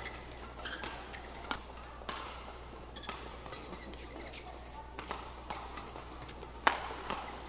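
Badminton rally in a hall: rackets striking the shuttlecock in sharp cracks at irregular intervals, the hardest hit near the end, over a steady crowd murmur.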